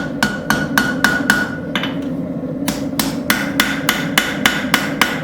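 Light, quick hammer blows on a railroad spike over an anvil, about five a second, each with a ringing tone: the finishing taps on the forged letter opener. The blows stop briefly about two seconds in, then carry on.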